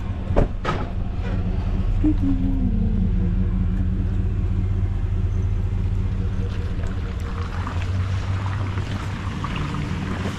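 Truck engine running steadily with a low rumble while the truck is manoeuvred into position, with two sharp clicks about half a second in and a brief falling tone about two seconds in.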